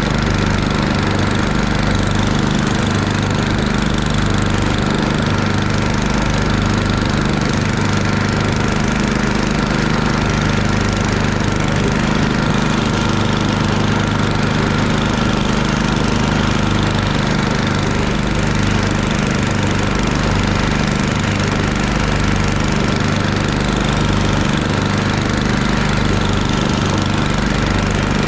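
Murray Ultra 8/27 snowblower's 8 hp engine running steadily.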